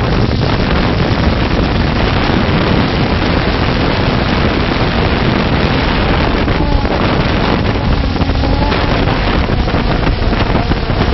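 Loud, steady rushing noise with no clear rhythm, like wind buffeting a microphone.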